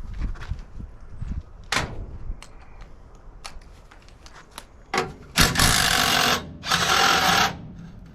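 A power drill run in two bursts of about a second each, a little past halfway, while dismantling a golf cart charger. Before them, scattered clicks and knocks of metal parts being handled.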